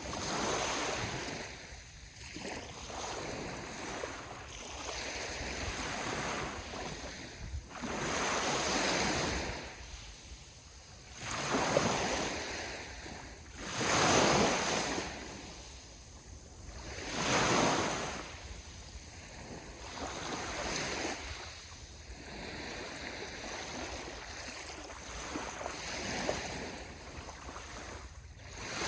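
Sea waves breaking and washing up on the shore, one surge every few seconds, with the louder breakers a little after the middle. Some wind runs underneath.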